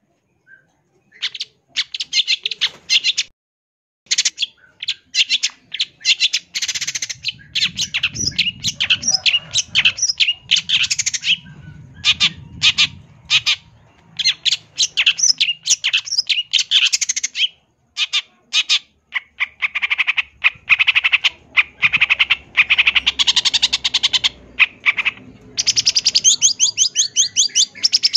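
Long-tailed shrike (cendet) singing a loud, fast song of rapid chattering notes packed with mimicked phrases, in runs broken by short pauses. It starts about a second in.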